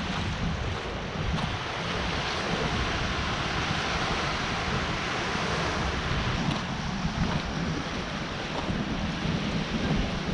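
Sea waves washing onto a rocky shoreline as a steady surf noise, with wind buffeting the microphone.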